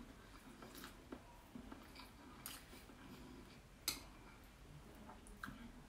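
Quiet chewing of a mouthful of noodles, with a few short clicks of metal chopsticks against the bowl, the sharpest a little under four seconds in.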